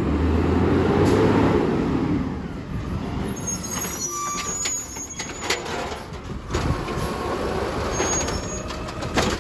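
Yard-waste garbage truck at work: its engine swells loudly for the first couple of seconds, then a series of clanks and knocks follows, with brief high squeals in the middle and again near the end.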